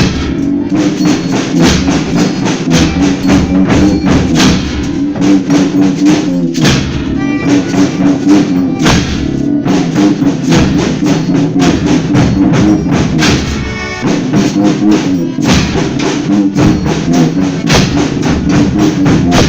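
Folia band playing an instrumental passage between sung verses: a steady beat of drums and tambourines over held, pitched instrument notes, with no singing.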